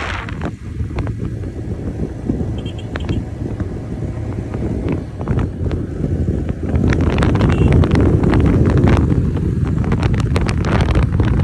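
Wind buffeting the microphone over a low rumble of a moving ride, getting louder about seven seconds in.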